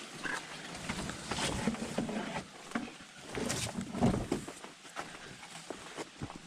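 Footsteps along a dirt portage trail under a carried load, with irregular knocks and rustling from the canoe and gear being carried; the loudest thump comes about four seconds in.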